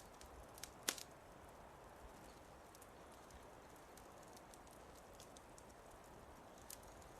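Fireplace wood fire crackling faintly: scattered sharp pops and snaps over a low steady hiss, with one louder pop about a second in.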